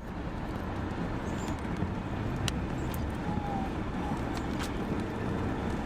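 A vehicle driving, heard from inside the cab as a steady low road and engine rumble, with a few sharp knocks from ping-pong-size hailstones striking the vehicle.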